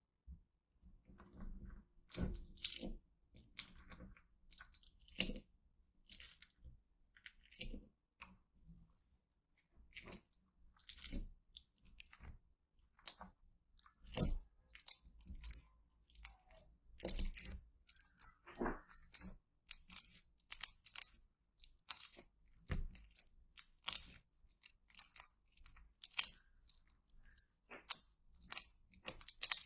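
Slime being squeezed and worked by hand, with irregular crunchy crackles and pops that start just after the beginning and go on throughout.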